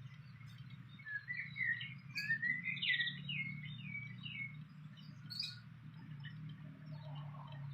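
Fantail singing: a quick run of short, squeaky notes stepping up and down, starting about a second in and lasting a few seconds, followed by a few single chirps.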